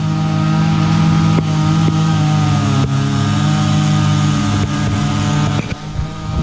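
An engine running steadily at high speed, with a few brief dips in level near the end.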